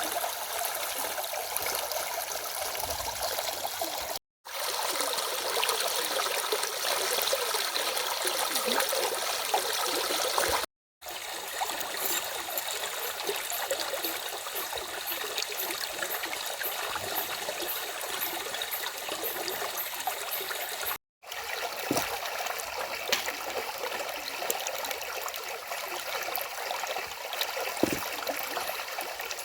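Stream water flowing and trickling steadily. The sound cuts out briefly three times.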